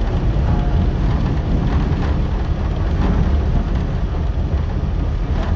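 Onboard running noise of an R68 subway car: a loud, steady low rumble of the wheels and motors on the track as the train runs toward its next stop.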